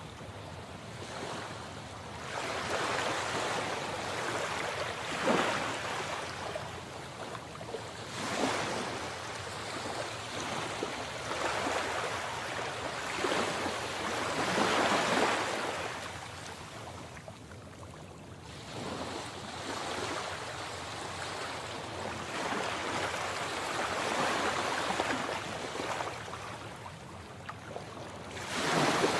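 Sea waves surging and breaking on the shore, a wash of surf swelling up and falling back every few seconds.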